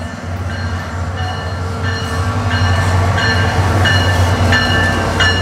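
SunRail commuter train running alongside the platform, a steady low rumble that grows louder. From about two seconds in, a bell rings about twice a second over it.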